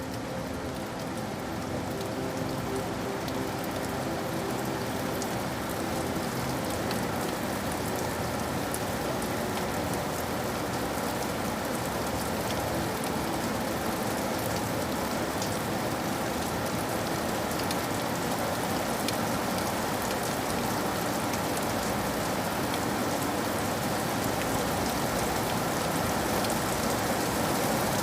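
Steady rain falling on a surface: a dense hiss with scattered individual drops, slowly growing a little louder. A faint low hum fades out in the first few seconds.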